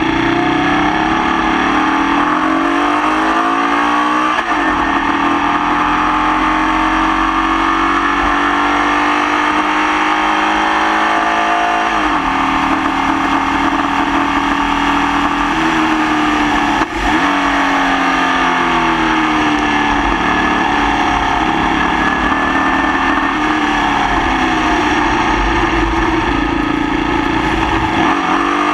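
Formula Vee race car's air-cooled Volkswagen flat-four engine under racing load, running with a misfire. Its pitch climbs steadily and drops sharply at gear changes, about 4, 12 and 17 seconds in.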